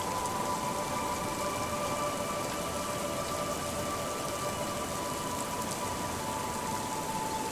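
Steady, even rain falling, with a few faint held tones running underneath.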